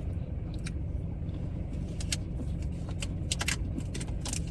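Steady low rumble of a car running, heard from inside the cabin, with a scattering of light sharp clicks and rustles over it.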